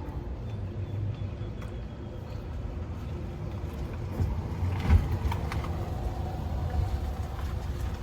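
A road vehicle driving past over a steady low hum, with a single knock about five seconds in.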